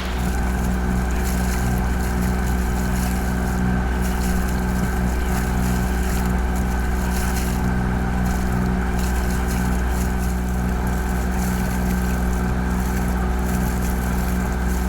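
Boat's engine running steadily under way at cruising speed: a constant low drone with a steady hum above it.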